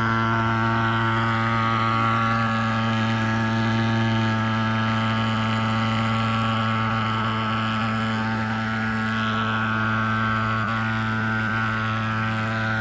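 Agrofog AF-35 pulse-jet fogging machine running steadily, a loud, even buzzing drone at one unchanging pitch.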